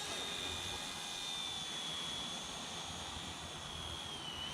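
Small electric RC helicopter flying, its motor and rotor giving a steady high whine that dips slightly in pitch near the end.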